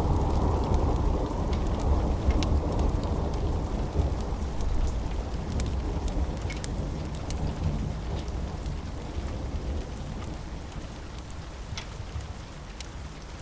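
A long rolling rumble of thunder that slowly fades away, under steady rain with scattered sharp drips.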